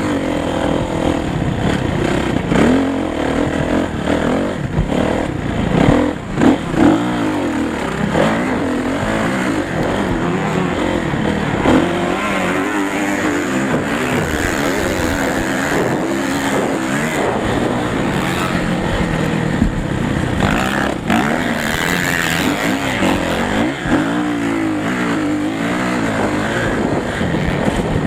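Motocross motorcycle engines running, several at once, their pitch repeatedly rising and falling as they rev up and back off.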